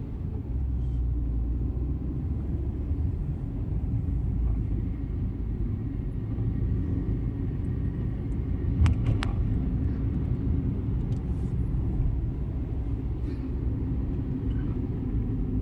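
Car on the move, with a steady low rumble of engine and road noise. Two sharp clicks come about nine seconds in.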